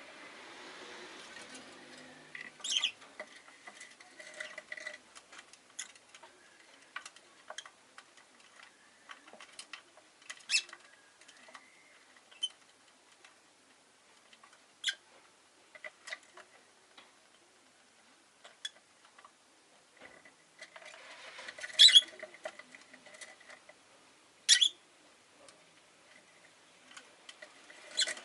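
Rosy-faced lovebird giving short, sharp chirps spaced irregularly, with a few much louder calls, the loudest pair a little over three-quarters of the way through.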